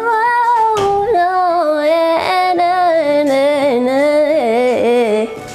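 A woman's voice singing a wordless melismatic vocalise. She holds a note with vibrato for under a second, then sings ornamented runs that wind up and down, and stops abruptly about five seconds in.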